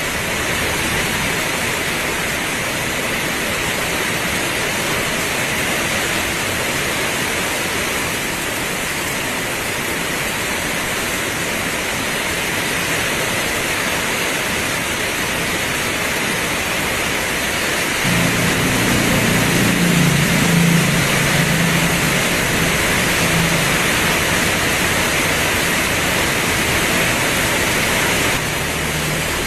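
Heavy rain pouring steadily, a dense even hiss. About two-thirds of the way in, a low, slightly wavering hum joins it for about ten seconds before fading out.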